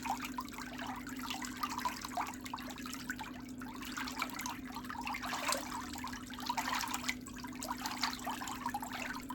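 Water trickling steadily, with many small irregular splashes over a constant low hum.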